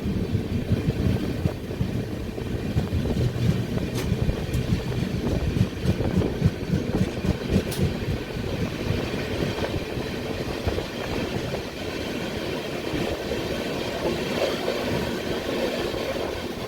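Rajdhani Express passenger train running on the rails, heard from aboard: a steady rumble of wheels on track with a rapid, uneven clatter and a few brief sharp clicks.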